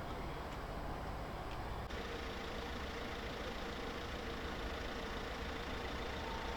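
Vehicle engine idling with a steady low rumble under street noise, with an abrupt change in the sound about two seconds in.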